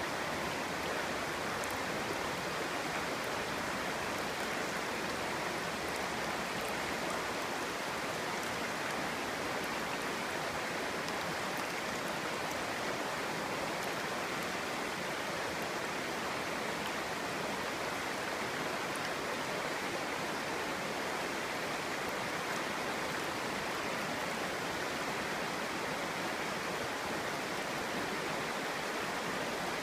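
Clear stream babbling over stones, a steady even rush of water with faint splashes.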